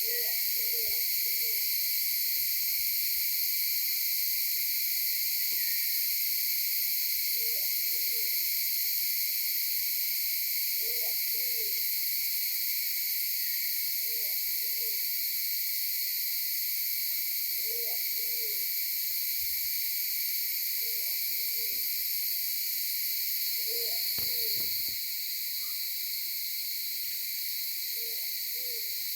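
A bird giving a short, low hooting call, each a quick run of two or three notes, about eight times a few seconds apart. A loud, steady chorus of insects runs underneath.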